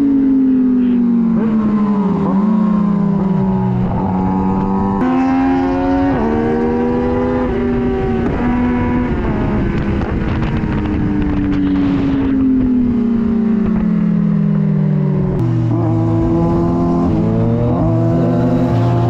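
Sportbike engine heard from onboard the moving motorcycle. Its pitch sinks steadily and then jumps up several times at gear changes.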